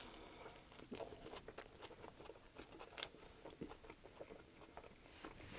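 Faint close-miked biting and chewing of a grill-toasted sub sandwich strip: soft crunches of the crisp bread and small wet mouth clicks, coming irregularly.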